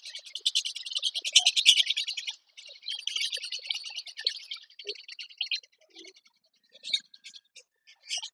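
Small birds chirping: a dense, rapid chatter of high chirps for about five seconds, then thinning out to scattered single chirps.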